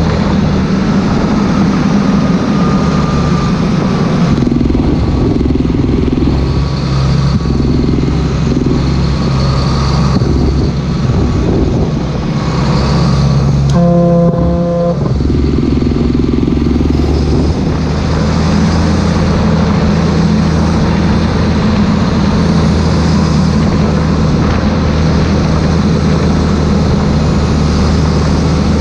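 Claas Xerion 3800 tractor's diesel engine running steadily. Near the middle a brief higher-pitched tone sounds over it for under a second.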